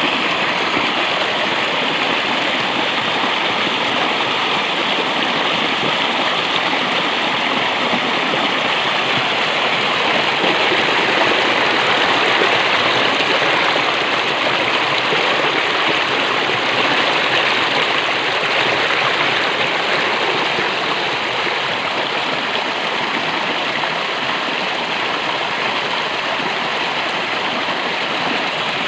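Steady rush of flowing water from a stream or small waterfall, running loud and unbroken.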